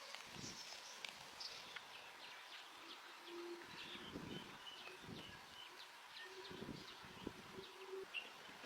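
Faint outdoor birdsong: many short high chirps and a few low cooing notes, with some soft low thumps.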